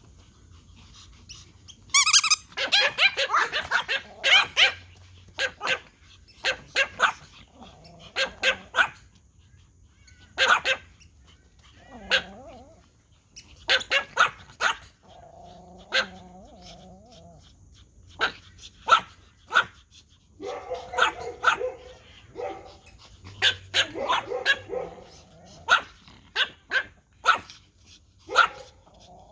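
Several Pomeranians barking in irregular volleys of short, sharp, high yaps, with brief pauses between bursts.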